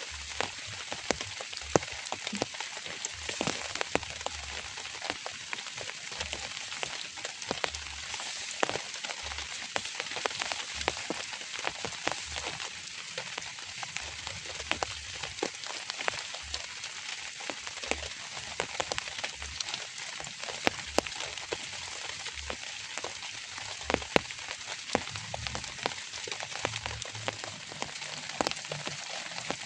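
Steady drizzle falling, a dense even hiss scattered with many sharp, irregular drop hits.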